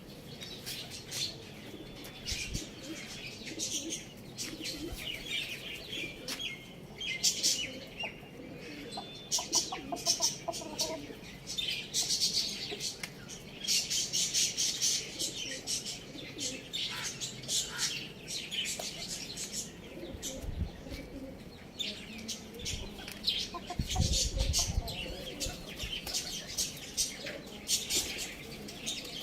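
Small pet birds chirping in rapid, dense twitters, with a few lower clucking calls and some wing flapping.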